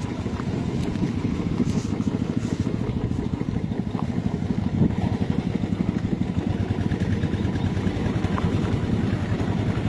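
Vehicle engine running steadily on a bumpy off-road dirt track, with a few knocks and rattles over the rough ground.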